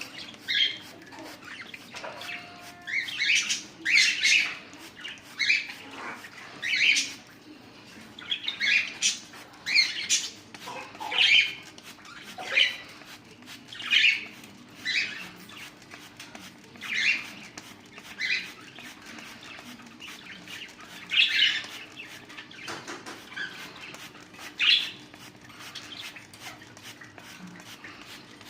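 Cockatiels calling: short, high calls repeated roughly once a second.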